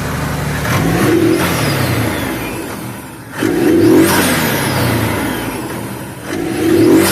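Turbocharged Can-Am side-by-side engine running and revved in three throttle blips, about 1, 4 and 7 seconds in, with a high falling whine after each rev. The exhaust is freshly sealed with a new gasket and no longer makes the "prrr" of the earlier leak.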